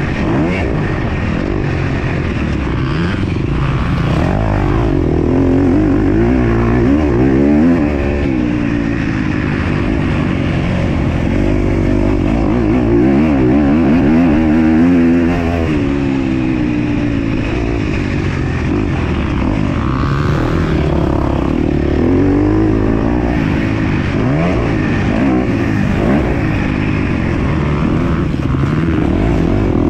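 MX2-class motocross bike engine being ridden hard. The revs rise and fall every second or two as the rider throttles on and off through the track.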